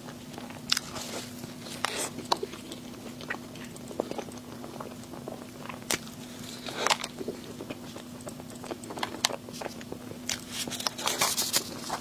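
Close-miked chewing and biting of food, with irregular crunchy clicks and crackles. A faint steady hum lies under it.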